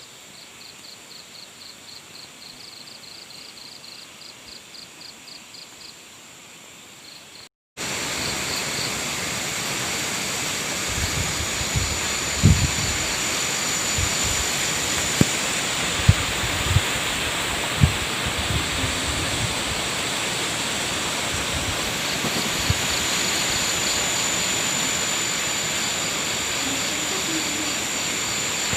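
Crickets chirping in an even pulsing rhythm. About seven seconds in this gives way to a loud steady rush of strong wind on the microphone, with gusts knocking it in low thumps and faint cricket chirps behind.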